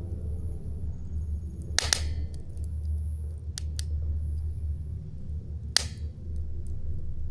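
Wood campfire burning with a steady low rumble, broken by two loud, sharp pops of burning wood, about two seconds in and near the end, with a couple of faint crackles between.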